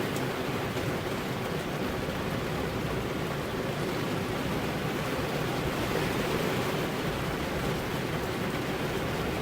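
Steady rain falling on a car's glass windows, an even hiss of drops with no let-up.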